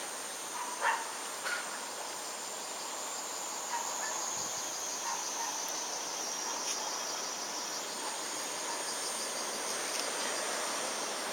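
Cicadas singing, a steady high-pitched buzzing drone, with a few short chirps about a second in.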